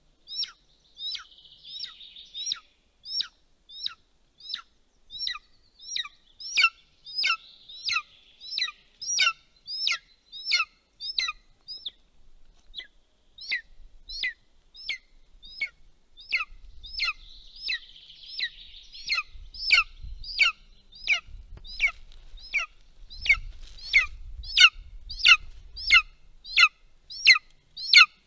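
A bird calling over and over, sharp high notes that sweep downward, repeated evenly about three times every two seconds. A faint low rumble comes in during the second half.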